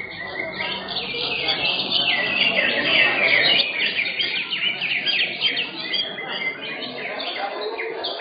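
Several caged green leafbirds (cucak hijau) singing at once in competition: a dense, unbroken tangle of fast, sharp chirps and short warbled phrases, with a low murmur of people underneath.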